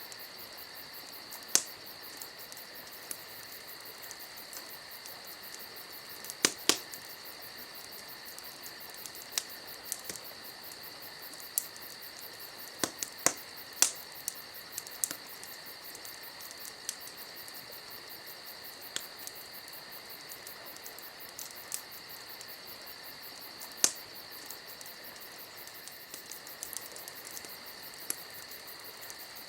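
Campfire crackling, with irregular sharp pops and snaps, the loudest a few seconds apart, over a steady high chirring of crickets.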